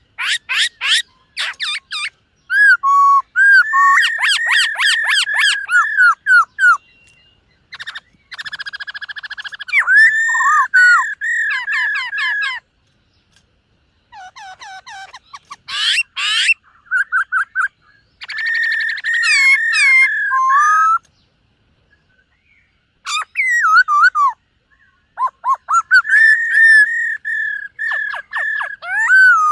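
Black-throated laughingthrush singing: loud whistled phrases of rapid repeated notes and slurred glides, in bursts separated by short pauses.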